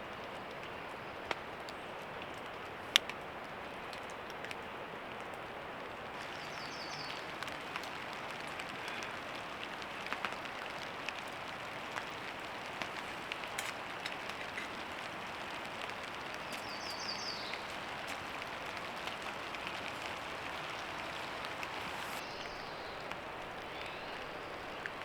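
Steady rain falling, with scattered louder drops tapping on a surface and a single sharp tap about three seconds in. Two brief high chirps come through, one about seven seconds in and one about seventeen seconds in.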